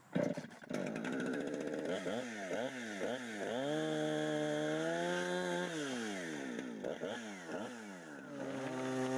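Chainsaw starting up, then revving up and down several times. It holds at high revs for a couple of seconds, then drops back and settles to a steady lower speed near the end.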